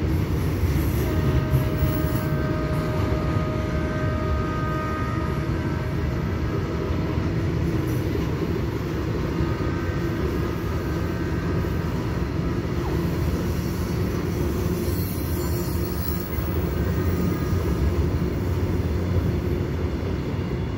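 Indian Railways freight wagons, open wagons and flat wagons loaded with steel rails, rolling past on the track with a steady loud rumble of wheels on rail. A thin, high wheel squeal comes and goes during roughly the first half.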